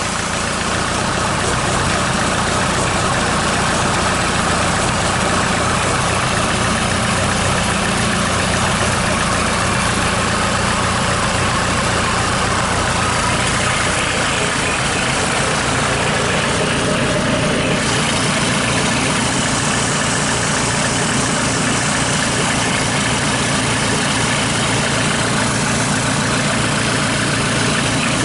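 SsangYong 2.0 XDI (664 951) four-cylinder diesel engine idling steadily just after a start, run out of the car.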